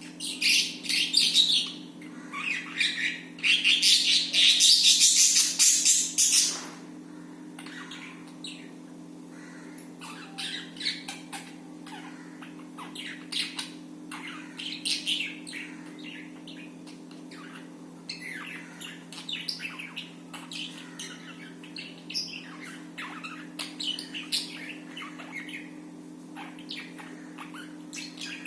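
Budgies chirping and squawking, a loud busy burst for the first six seconds or so, then scattered quieter chirps, over a steady low hum.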